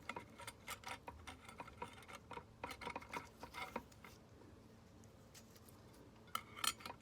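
Faint metallic clicks and clinks of clutch plates being handled and fitted into a Yamaha YZ125 clutch, a run of them for about four seconds, a short pause, then more near the end.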